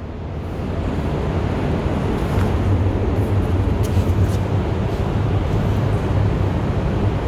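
Steady low rumble with a hum around 100 Hz under a broad hiss, like machinery or wind noise on the microphone; a few faint ticks rise above it.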